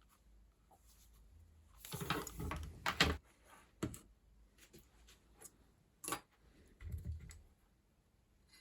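Scattered clicks, knocks and rustling of small objects being handled, with the loudest cluster about two to three seconds in and a dull thump near the end.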